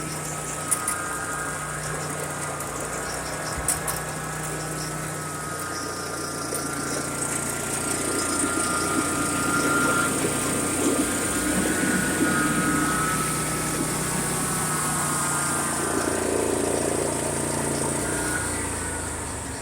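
DR wood chipper's engine running steadily. It grows somewhat louder about eight seconds in and eases off near the end.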